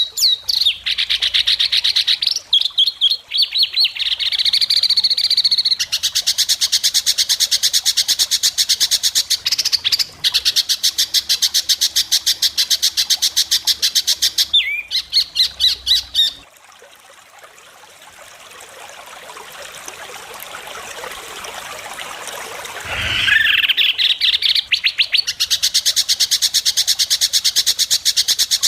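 White-rumped shama (murai batu) singing long, sharp, rapid-fire bursts of repeated high notes mixed with mimicked phrases. About halfway through the song breaks off for several seconds, leaving a quieter hiss that slowly grows louder, and then the bursts resume.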